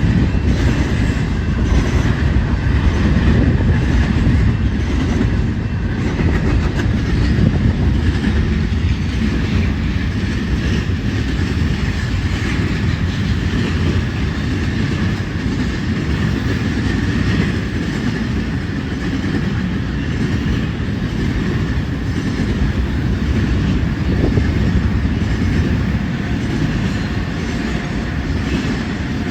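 Union Pacific intermodal stack train rolling past: a steady, loud rumble with the wheels clicking over the rail joints.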